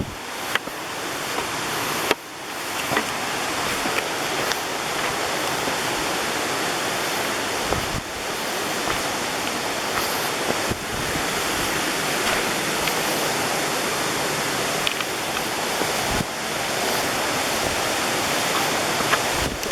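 Steady rush of falling or flowing water, as from a waterfall or rocky stream, dipping briefly a few times.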